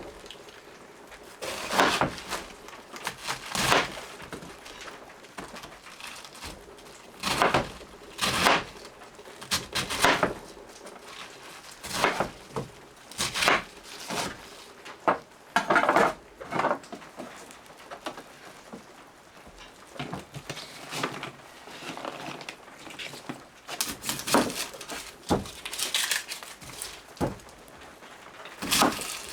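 Knife cutting vegetables on a cutting board: irregular sharp knocks, single and in short clusters, with some handling in between.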